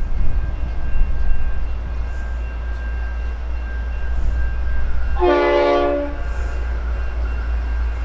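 A V/Line diesel passenger train runs with a steady low rumble and sounds its horn once, a short blast a little over five seconds in.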